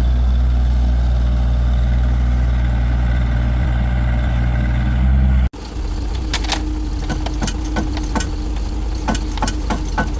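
A vehicle engine idling steadily. About halfway through it cuts off abruptly, and a quieter engine hum follows with scattered sharp clicks and knocks.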